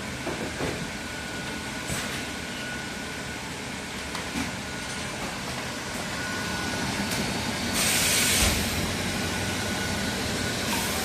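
Semi-automatic shrink wrapping machine running with a steady mechanical noise and a faint steady tone, light clicks in the first few seconds, and a loud hiss about eight seconds in, with another hiss starting near the end.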